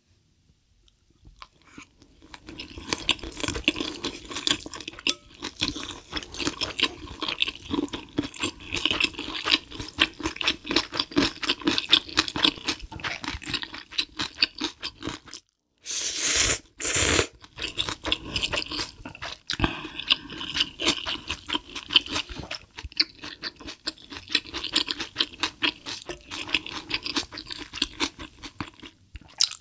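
A person eating Korean ramyun noodles close to the microphone: long runs of wet slurping and chewing. There is a short break about halfway, then a louder burst of sound.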